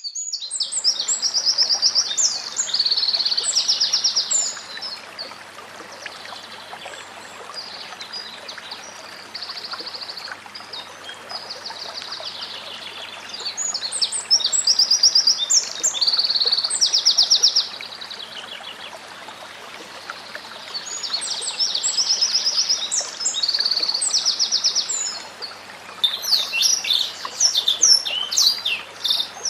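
White-rumped shama singing loud phrases of clear whistles and fast buzzy trills, with pauses of several seconds between them. Near the end it breaks into a quick run of varied notes. A faint steady hiss lies under the song.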